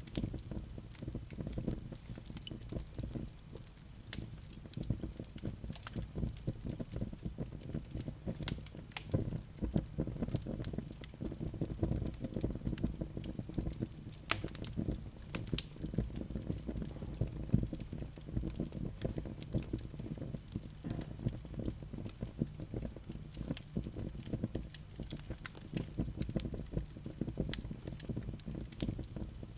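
Wood fire burning in a fireplace: a low steady rumble of flames with frequent irregular crackles and pops from the logs.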